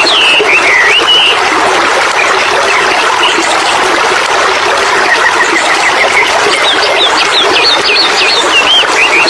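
Birdsong over a steady rush of flowing water. A bird sings a quick run of rising and falling whistled notes just after the start, and the same phrase comes again near the end.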